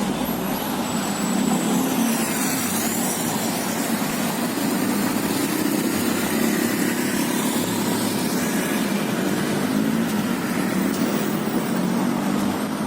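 Riding on a motorcycle taxi through city traffic: the small motorbike engine runs steadily under continuous wind and road noise.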